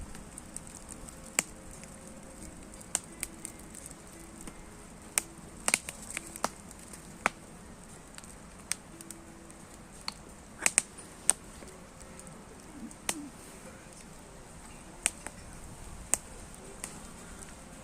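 Bonfire crackling, the burning wood giving off sharp pops and snaps at irregular intervals over a low steady hiss, with a cluster of louder pops about ten to eleven seconds in.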